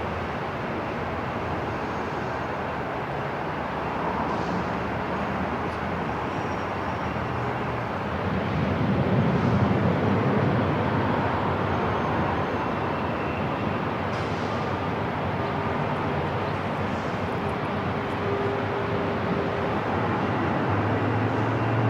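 Airport terminal ambience: a steady wash of noise with a low rumble that swells about eight seconds in and eases off over the next few seconds.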